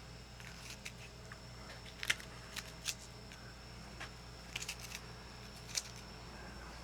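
Skinning knife slicing through deer hide and the hide being pulled off the carcass, in short, crisp, irregular strokes over a steady low hum. The hide is stiff from a night in the cooler.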